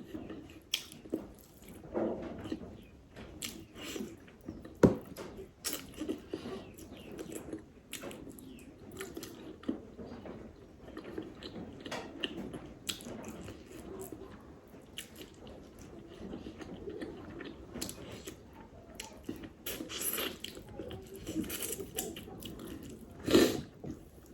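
A person chewing and eating a meal close to the microphone: irregular short mouth clicks and bites throughout, with one sharp click a little before five seconds in and another strong one near the end.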